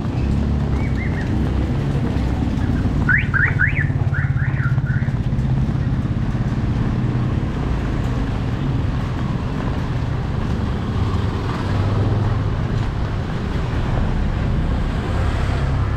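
A motor vehicle's engine running steadily. About three seconds in, a short series of high rising chirps sounds in two quick groups of three.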